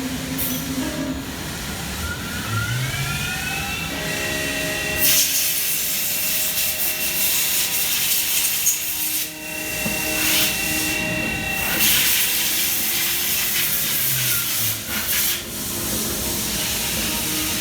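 2003 Fadal 4020HT CNC vertical mill's spindle spinning up with a rising whine, running at a steady high pitch, then winding back down near the end. A loud hiss joins for several seconds in the middle while it runs.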